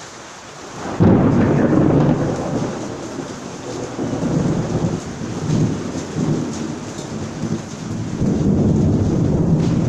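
Steady rain, then thunder breaking in suddenly and loudly about a second in and rumbling on in waves, swelling again near the end.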